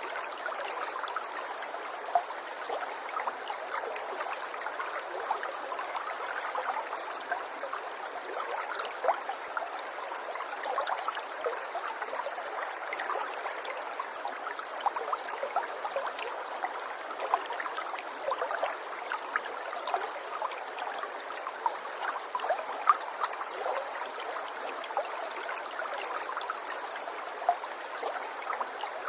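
Water running in a small stream, a steady babbling with many small splashes and drips throughout.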